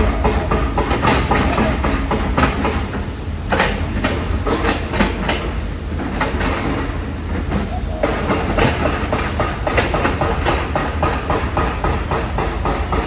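Construction site noise: a steady deep rumble under a dense, continuous clatter of metal knocks and bangs, the clatter easing for a few seconds in the middle.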